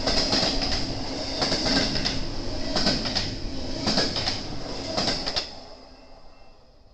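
BNSF intermodal freight train rolling past, its wheels clacking over rail joints in paired clicks about once a second over a steady rumble and hiss. The sound fades away near the end.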